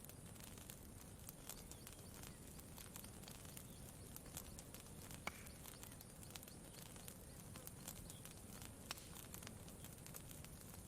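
Campfire crackling faintly: sparse, irregular small pops and snaps, one sharper pop a little past the middle, over a soft steady low background.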